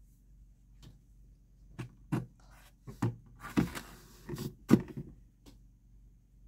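Ice cubes being poured into a plastic bucket, landing as a run of irregular sharp knocks and clatters for a few seconds.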